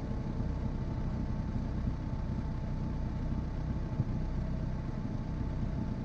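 Car engine running steadily at low revs, close to idle.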